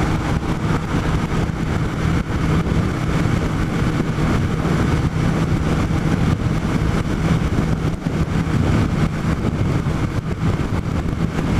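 Kawasaki ZR-7's air-cooled inline-four engine running steadily at cruising speed, under heavy wind rushing and buffeting over the microphone in a strong crosswind.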